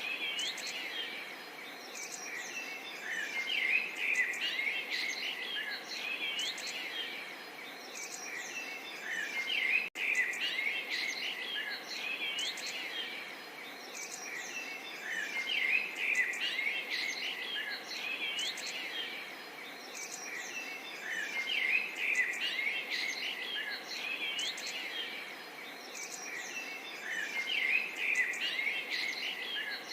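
A dense chorus of many small birds chirping and twittering, the calls overlapping in short, quick phrases with one very brief dropout about ten seconds in.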